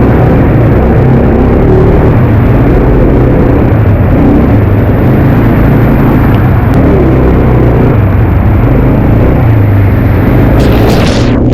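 Quad bike engine running while being ridden, its pitch wavering with the throttle over a loud, heavy low rumble.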